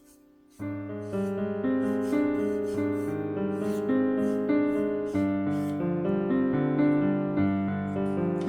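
Background piano music: after a faint fading tone, a piano piece comes in sharply about half a second in and plays on in gentle, evenly paced notes.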